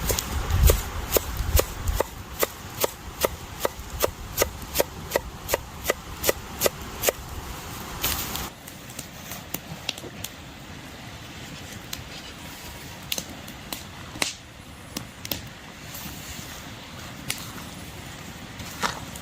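Knife chopping on a wooden cutting board in a steady rhythm of about two to three strokes a second. The chopping stops about seven seconds in with a brief scrape, then only a few scattered light knocks.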